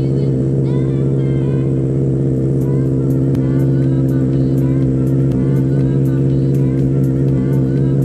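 Honda CBR650R's inline-four engine idling steadily through an Austin Racing aftermarket exhaust, a constant low note with no revving.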